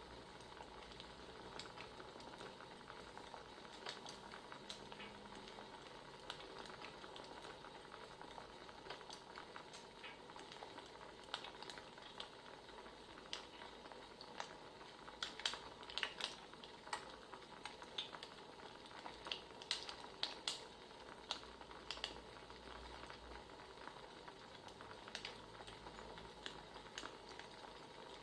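Wood fire crackling: a steady soft hiss with scattered sharp pops and snaps, coming thicker in quick clusters around the middle.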